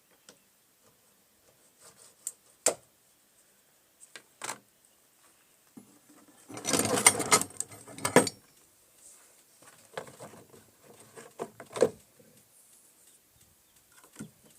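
Scattered clicks and knocks of tools and materials being handled, with a stretch of rustling and scraping lasting about two seconds midway.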